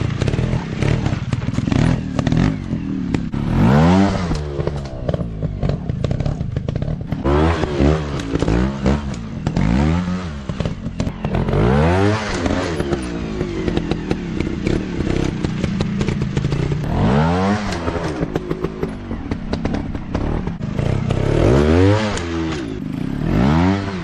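Off-road dirt bike engines revving up and falling back again and again, with clattering and knocks throughout.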